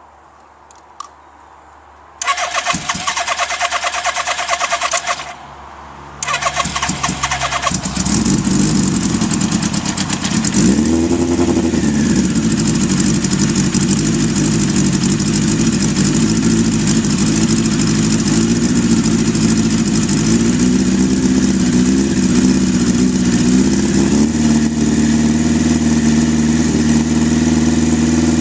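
Cold start of a 1983 Suzuki GS1100E's air-cooled inline-four after sitting about ten days: the starter cranks for about three seconds, stops briefly, then cranks again until the engine catches. It then runs at an uneven idle that rises and dips, settling to a steadier idle near the end.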